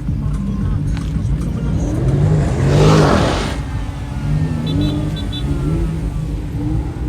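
Car engines revving, their pitch rising and falling, with a car sweeping past close, loudest about three seconds in.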